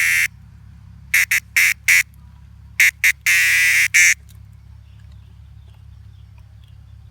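Harsh, loud bird calls like quacking: a quick series of short calls, then one longer call, ending about four seconds in, over a steady low hum.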